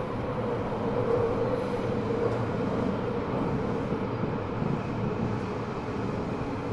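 Eidan 6000-series subway car, fitted with a Mitsubishi three-level VVVF inverter taken from the 7000 series, running between stations, heard from the car floor: a steady rumble of wheels and running gear. A faint high whine sits above it for the first four seconds or so.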